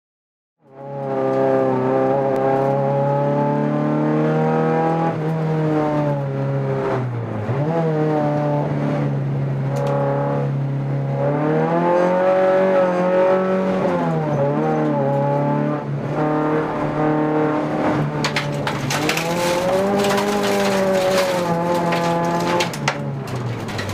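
Opel Astra F rallycross car's 2.0-litre four-cylinder engine heard from inside the cabin under hard racing, its pitch climbing and dropping again and again through gear changes and lifts. Clattering knocks in the last few seconds.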